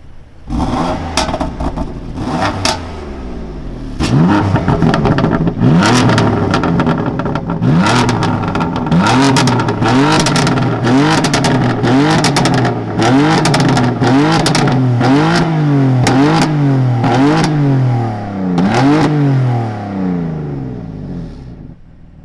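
BMW M4's twin-turbo straight-six engine revved repeatedly while standing, each blip rising and falling about once a second, with sharp exhaust cracks as the throttle closes. The revving dies away near the end.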